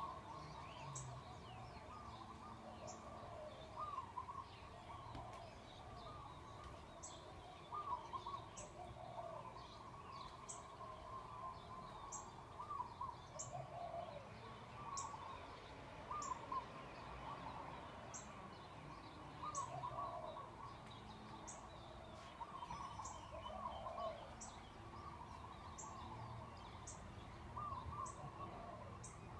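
Faint chorus of many birds calling and chirping, the calls overlapping throughout, with a thin high tick every second or two.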